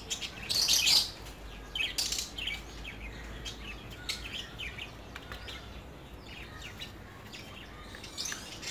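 Small birds chirping in a scattered run of short, high calls, loudest and densest in the first two seconds.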